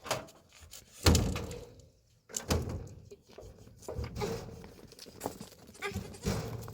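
A series of irregular knocks and thuds, the loudest about a second in, with several weaker ones after it.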